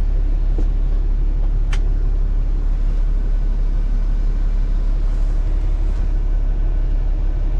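Semi truck's diesel engine idling, a steady low rumble, with one brief click about two seconds in.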